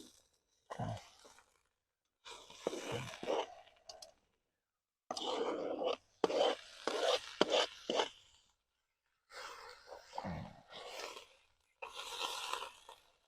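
Chopped vegetables being scraped and tipped into a Dutch oven, in five or so separate bursts of scraping and rustling with a few soft thuds.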